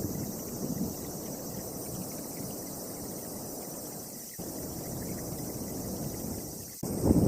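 Storm wind gusting against the microphone, a low rushing noise that cuts off abruptly twice where the recording is spliced, then surges louder near the end.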